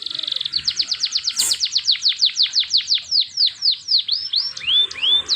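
A bird singing a fast trill of downward-sweeping whistled notes, about five a second, which slows near the end into a few rising slurred notes.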